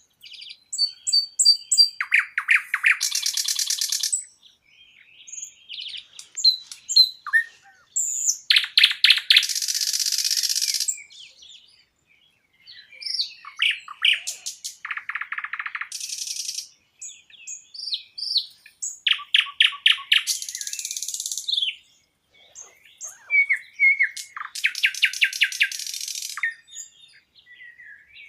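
Songbird singing in repeated phrases, each a few seconds long: quick high notes and fast trills that run into a buzzy rattle, with short pauses between phrases.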